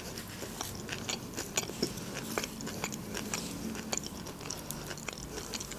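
Close-up chewing of a mouthful of sushi: soft, irregular wet mouth clicks and smacks.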